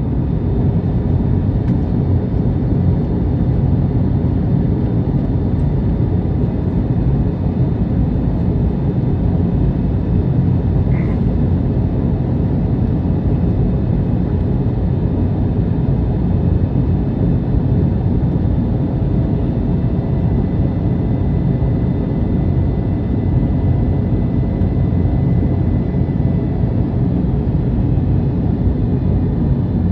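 Steady cabin noise inside an Airbus A321neo: an even drone of engines and rushing air, with a few faint steady tones above it.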